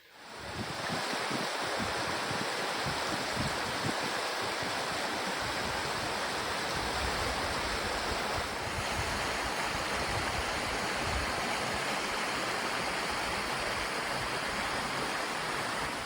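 Steady rush of the Hatea River's flowing water, starting abruptly and running on evenly, with some low, uneven rumble mixed in.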